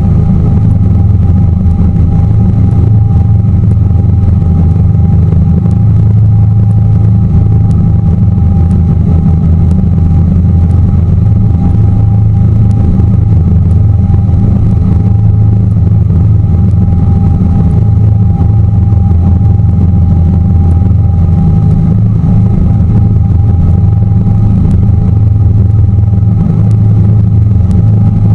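Tour boat's engine running steadily at cruising speed, heard on board as a loud, unbroken low drone with a thin steady whine above it.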